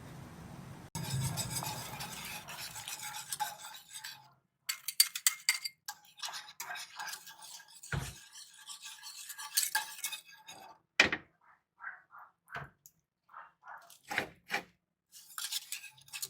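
A spoon scraping and clinking against a bowl while food is mixed, with a few sharp taps.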